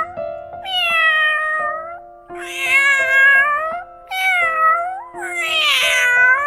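Domestic cat meowing repeatedly: four long meows of about a second or more each, with short gaps between them.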